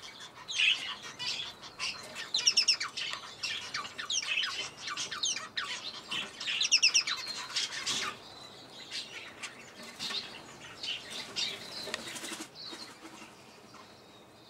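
Many small birds in an aviary chirping and calling in quick, overlapping notes. They are busy for the first half and thin out after about eight seconds.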